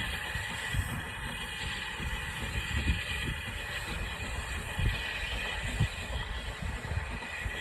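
A heritage railway train running, a steady rumbling noise with irregular low thumps.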